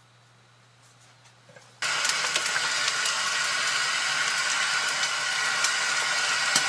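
Water running hard from a tap, turned on suddenly about two seconds in and then pouring steadily.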